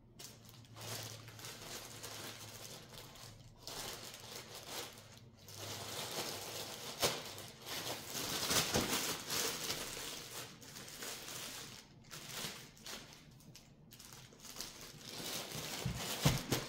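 Plastic bread bag crinkling as sliced bread is handled and moved into it, in irregular bursts that are busiest in the middle and again near the end.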